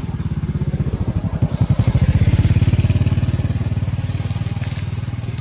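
A small engine running with a rapid, even beat, growing louder to a peak about halfway through and then fading.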